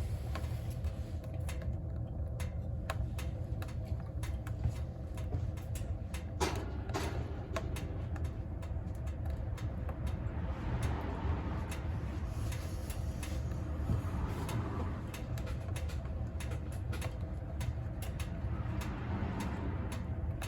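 Firewood burning in a wood stove: scattered crackles and pops over a steady low rumble of the fire.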